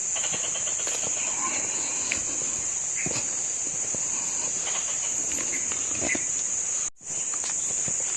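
Steady, high-pitched chorus of insects shrilling in the plantation, with faint scattered steps over the ground; the whole sound drops out for an instant about seven seconds in.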